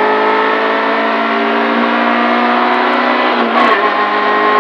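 Suzuki Swift GTi rally car's 1.3-litre twin-cam four-cylinder engine running hard at high revs, heard from inside the cabin, with a steady pitch. There is a short break about three and a half seconds in, then the pitch slowly climbs again.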